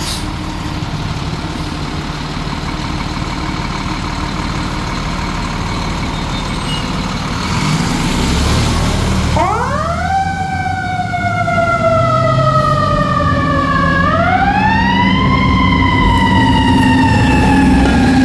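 Fire engine's diesel engine running with a low rumble, then a short burst of hiss. About halfway through, its siren winds up quickly and slides slowly down in pitch, then winds up again and falls slowly once more as the engine grows louder.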